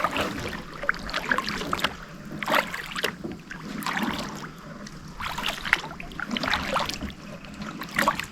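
Kayak paddle strokes: the blades dip and splash in the water, with drips between, about a stroke every second or so.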